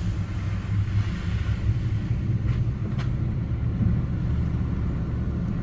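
Car driving along a mud-covered road: a steady low rumble of engine and tyres, with two faint ticks about halfway through.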